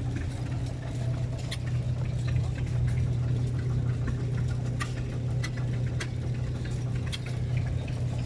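An engine running steadily at idle, a constant low hum, with scattered light ticks over it.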